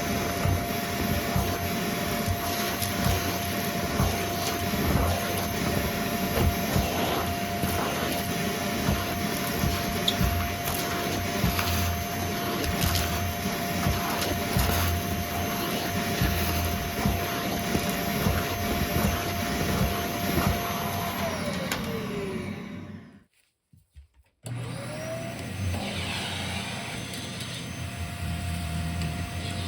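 Vacuum cleaner running with a steady motor whine and a stream of crackles as crunchy debris is sucked up. About 21 seconds in the motor is switched off and winds down, falling in pitch. After a brief silence a vacuum motor starts again, its whine rising as it spins up, and runs steadily.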